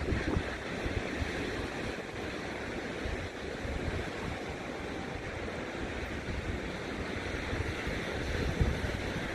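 Pacific Ocean surf washing steadily on the shore, with wind gusting against the microphone in uneven low rumbles.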